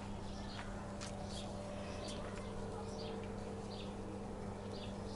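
A small bird chirping repeatedly, short high notes about twice a second, over a steady low hum.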